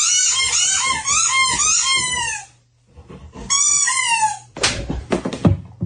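A rapid run of short, high-pitched animal cries, each rising and then falling, followed after a brief pause by a second shorter run. A few sharp knocks or thuds come near the end.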